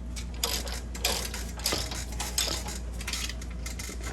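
Light metallic clicks and clinks, coming irregularly several times a second, as a Loctite-coated bolt and hand tools are worked on the brake assembly.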